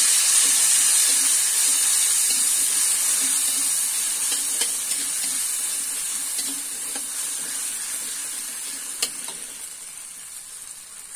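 Ground shallot, garlic, kencur and chilli paste sizzling in hot oil in a wok while being stirred with a spatula, which scrapes the pan now and then; this is the spice paste being sautéed until fragrant and cooked. The sizzle fades steadily, with a sharp click about nine seconds in.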